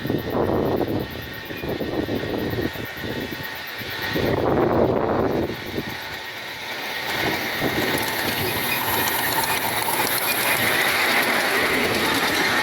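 Miniature steam locomotive running on a ride-on railway, its wheels on the rails and its exhaust coming in uneven swells, louder about four to five seconds in, then a steadier, hissier running sound in the last few seconds.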